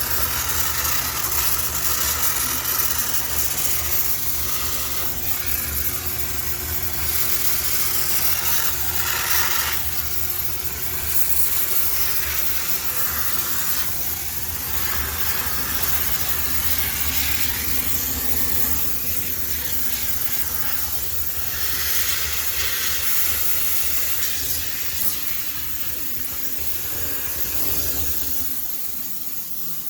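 High-pressure steam cleaner spraying steam into a front-loading washer drum with a steady hiss, over a low hum that drops away near the end.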